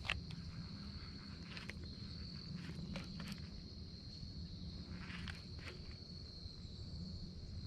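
Faint, irregular clicks and taps of a baitcasting reel and rod being worked while retrieving a jerkbait, over a steady thin high-pitched whine and a low rumble.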